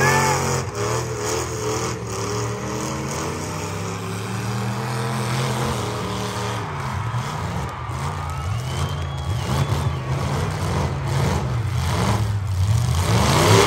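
Demolition derby cars' engines revving and running hard, their pitch rising and falling, with scattered sharp knocks and crashes.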